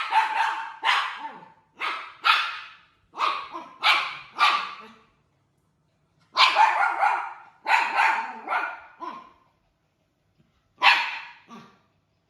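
A dog barking in repeated sharp barks, in three bouts: a run of about seven, a pause, about five more, then two near the end.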